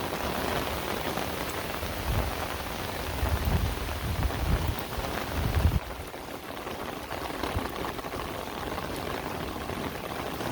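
Heavy rain falling steadily, an even hiss of drops on surfaces, with uneven low rumbling bumps for a few seconds in the middle.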